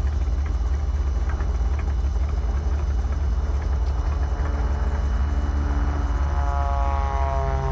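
Stinson light airplane's piston engine idling on the ground with a steady low drone. About six seconds in, another propeller airplane's engine note comes in over it, falling slowly in pitch.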